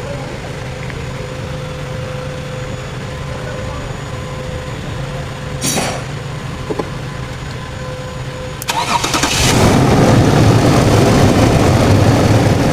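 Car engine cranking and catching about two-thirds of the way in, then running loudly and steadily. Before that there is a steady low hum with a couple of short clicks.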